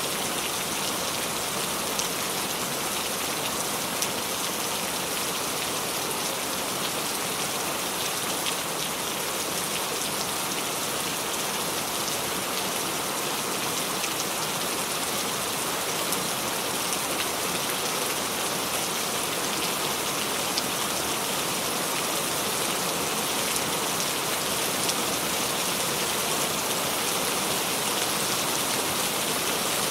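Steady rain falling, a dense even hiss of drops with the odd louder drop ticking through.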